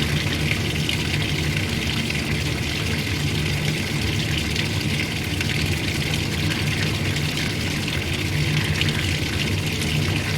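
Old-style washing machine running: a steady motor hum with water rushing through it.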